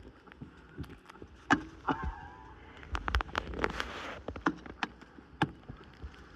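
Irregular crunches and thumps of someone wading through deep snow, with a short wavering high whine about two seconds in.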